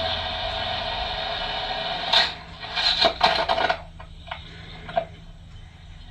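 Motorcycle engine running steadily at speed, then about two seconds in the engine sound stops and a crash follows: a loud impact, a clatter of hits over the next second or so, and a couple of lighter knocks.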